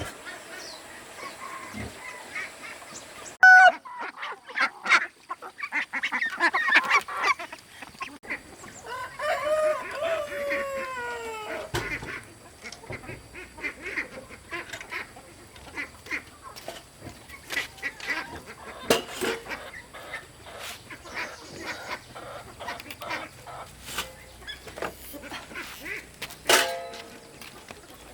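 Farm poultry calling: a loud call about 3.5 s in, a run of calls around 6–7 s, a long falling call near the middle and another loud call near the end, over scattered softer calls.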